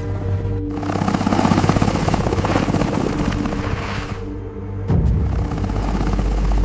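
Helicopter rotor noise, a rapid chopping with a loud rush of wind-like noise, over sustained background music. About five seconds in, a deep low rumble comes in suddenly.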